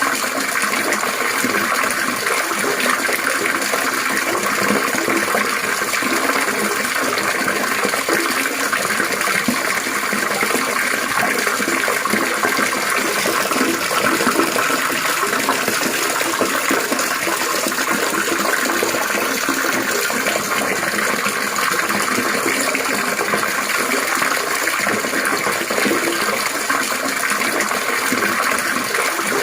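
Water trickling and splashing steadily, a continuous babbling.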